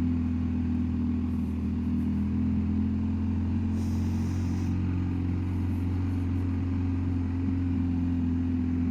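BMW R1250GS Adventure's boxer-twin engine running steadily, an even low engine note with no revving.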